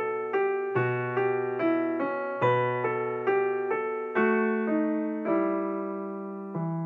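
Background music on a piano-like keyboard: a steady run of struck notes, about two or three a second over a bass line, slowing toward the end and settling on a chord that rings on.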